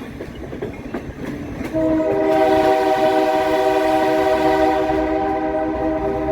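Passenger train rolling with wheels clicking over rail joints. About two seconds in, the multi-chime air horn on the EMD F40PHM-2 diesel locomotive just ahead starts one long, steady blast of several notes together.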